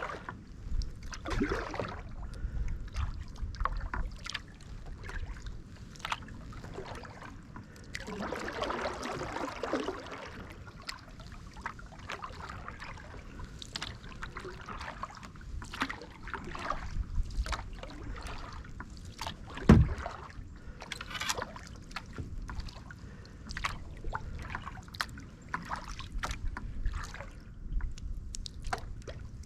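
Kayak paddling: paddle blades dipping and dripping water with many small splashes and ticks, a longer splash about eight seconds in, and one sharp knock about twenty seconds in.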